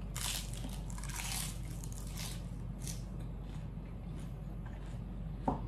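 Close-miked chewing of a crisp lettuce leaf: wet crunching for the first two to three seconds, then softer chewing.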